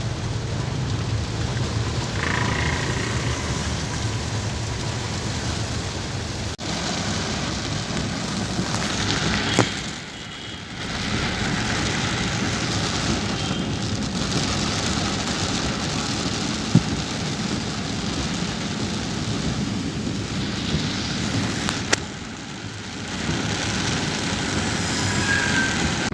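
Heavy rain pelting a car while it drives, mixed with the vehicle's road noise, a dense, steady rush. It drops away briefly twice, about ten seconds in and again near twenty-two seconds, and a few sharp clicks stand out.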